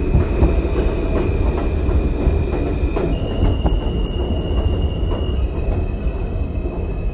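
NYC subway train running between stations: a steady rumble of wheels on rail with scattered clicks, and a high steady tone that steps up in pitch about three seconds in and back down near the end.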